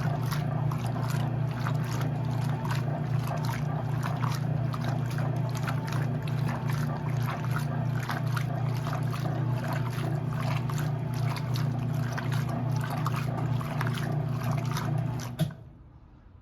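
Electrolux LE06DBD top-load washing machine running with water sloshing in the tub over a steady motor hum. It cuts off suddenly with a click near the end.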